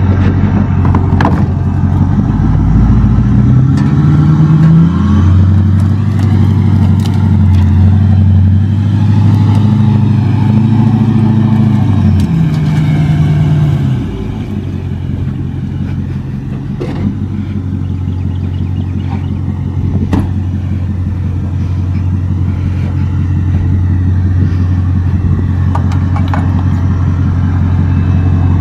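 Engine running, its pitch rising a few seconds in and held high for several seconds, then falling back to a steady lower idle about halfway through. A few faint knocks can be heard over it.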